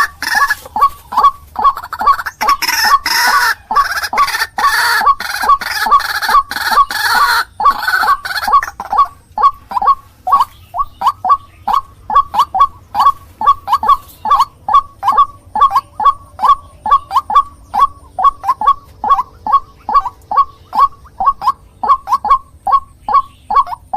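White-breasted waterhen (ruak-ruak) calling over and over, a lure recording. For about the first nine seconds the calls are harsh and crowded, then they settle into a steady run of clear notes, about two to three a second.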